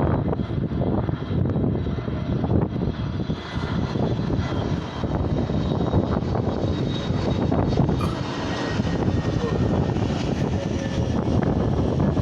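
Airliner engines running steadily during a landing attempt in storm winds: a dense, continuous rumble with a faint high whine above it.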